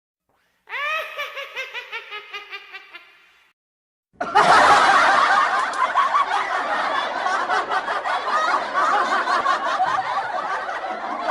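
Two laughing sound effects, one after the other. First a single high-pitched snickering laugh in quick pulses, fading out over about three seconds. Then, after a second of silence, a long, loud burst of many people laughing at once.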